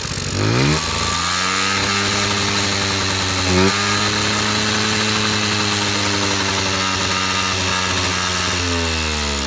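Honda Express NC50 moped's small two-stroke single-cylinder engine, just started with the choke-and-full-throttle cold-start method, revving up over the first second and running fast and steady. There is a quick rev blip about three and a half seconds in, and the revs drop near the end.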